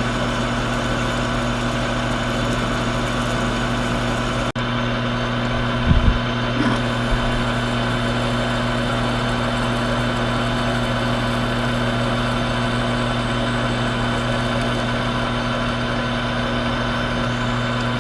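Old Monarch engine lathe running steadily with a constant motor hum while it drills into the workpiece, with a few short knocks about six seconds in.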